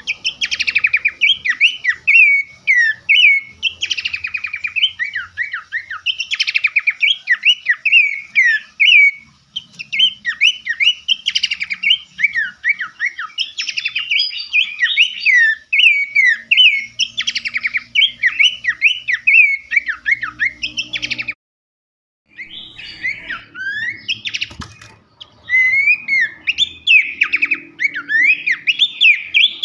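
Songbird song: a fast, nearly unbroken run of varied chirps, trills and sharp sweeping whistled notes. It cuts out for about a second around two-thirds of the way through, then starts again.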